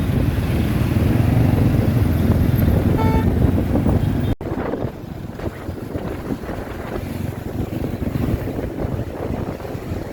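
Riding on a motorbike through city traffic: engine rumble and wind noise on the microphone. A brief tone sounds about three seconds in. Just after four seconds the sound cuts abruptly to quieter traffic noise.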